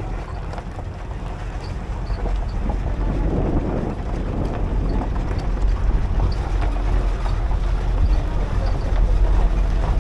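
Tour shuttle vehicle running, with a steady low engine and road rumble and wind buffeting the microphone.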